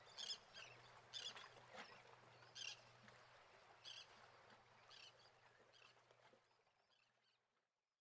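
Faint birds chirping, short high calls every half second or so, over a low steady hum, fading out to silence near the end.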